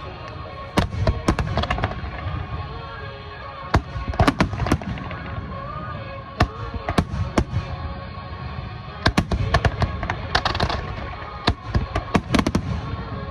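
Aerial fireworks bursting: clusters of sharp bangs and crackles every couple of seconds, over music.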